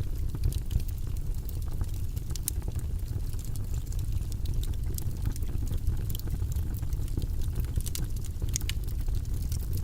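Wood fire burning in a fireplace: a steady low rush of flame with frequent sharp crackles and pops scattered irregularly throughout.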